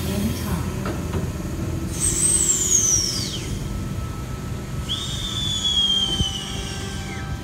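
V-set double-deck electric train rumbling as it pulls out along a curve, with two high wheel squeals that fall in pitch, about two seconds in and again about five seconds in.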